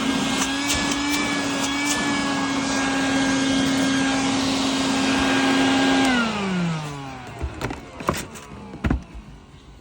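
Vacuum cleaner running steadily, then switched off about six seconds in, its motor whine falling in pitch as it spins down. A few scattered knocks and clicks follow.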